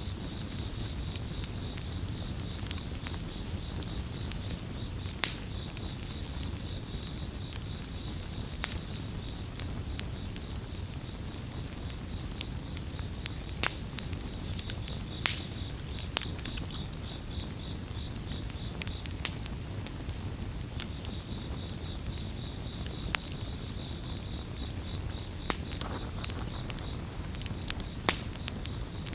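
Campfire burning with a low steady rush and scattered sharp crackles and pops. Crickets chirp in a fast, even-pulsed trill throughout, pausing twice for a few seconds.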